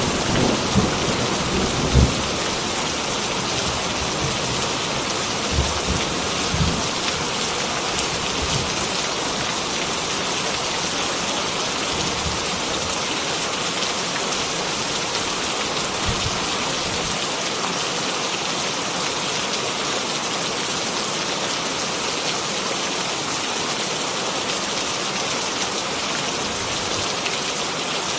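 Heavy rain pouring steadily, with a few low rumbles of thunder in the first several seconds and another faint one about midway.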